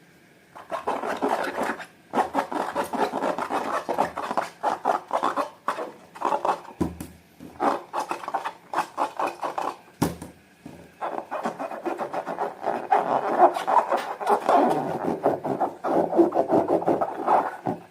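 Slime being mixed and squished, a dense run of small crackles, clicks and squelches with short pauses between bouts.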